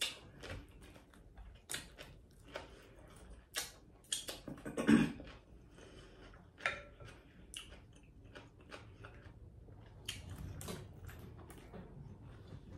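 Close-miked chewing of a mouthful of cucumber, with short crunches and mouth clicks coming irregularly. There is one louder mouth sound about five seconds in.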